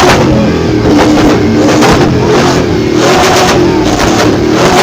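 Drift car's engine revving hard and loud, the revs rising and falling over and over about once a second.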